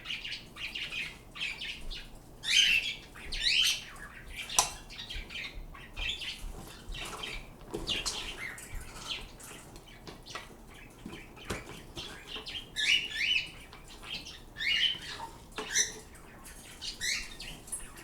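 Pet birds chirping and squawking, with many short high-pitched calls and a few louder squawks, plus one sharp click about four and a half seconds in.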